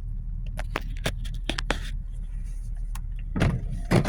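Low steady rumble of a car heard from inside, with scattered sharp ticks and a couple of heavier thumps near the end.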